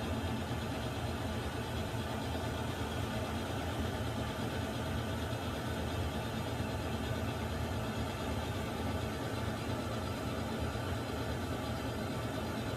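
Water heater running with a steady, unchanging low rumble and hiss.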